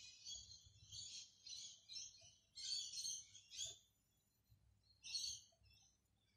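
Faint chirping of small birds: a run of quick high calls through the first four seconds, a short pause, then one more brief burst about five seconds in.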